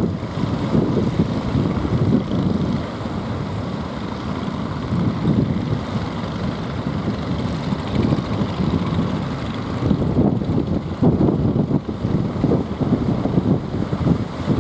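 Strong wind gusting across the microphone: a dense low rumble that swells and falls unevenly, louder for a few seconds near the end.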